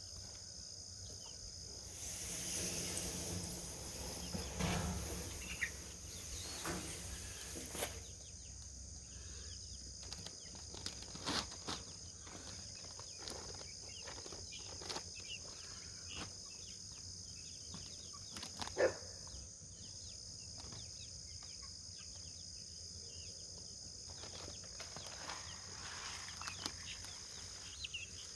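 Early-morning outdoor ambience: insects chirping steadily, with scattered short bird calls and clicks. A rustling noise rises for a few seconds near the start, and one louder short call stands out about two-thirds of the way through.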